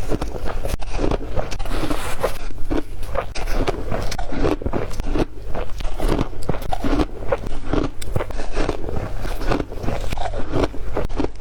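Ice being bitten and chewed close to the microphone: a steady run of hard, sharp crunches, a few each second.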